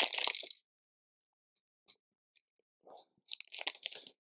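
Loose LEGO pieces being sifted and rummaged through by hand, a crinkly plastic rustle. It comes in two spells, one ending about half a second in and one in the last second, with a few faint clicks between.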